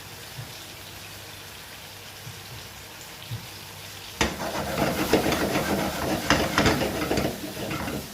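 Mushrooms frying in oil in a pan with a quiet, steady sizzle. About four seconds in, a utensil starts stirring them, and a louder stretch of sizzling with quick clicks and scrapes against the pan follows, stopping near the end.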